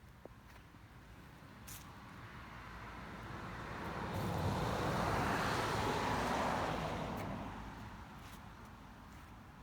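A road vehicle passing by: a smooth rise of tyre and engine noise that peaks a few seconds in and then fades away.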